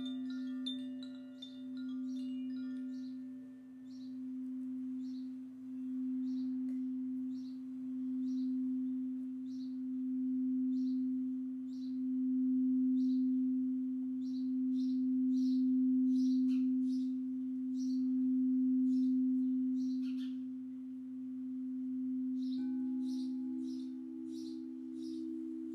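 Singing bowl sounding one long, low, sustained tone that swells and eases in slow waves, with a second, higher bowl tone joining near the end. Short bird chirps repeat over it, and a few higher chime-like tones die away in the first seconds.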